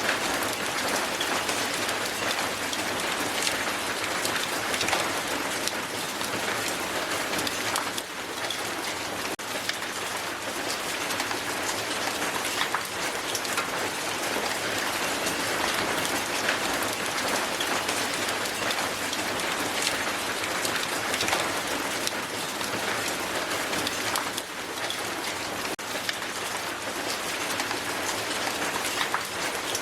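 Strong hail falling onto a hard surface: a dense, steady patter of countless small ice impacts.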